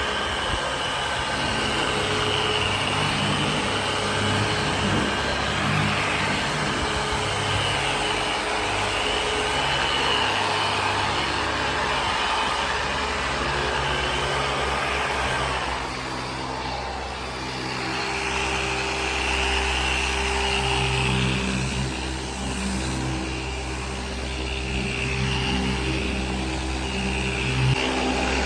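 Machine car polisher running with a blue cutting pad on the paint, a steady motor hum and pad whir.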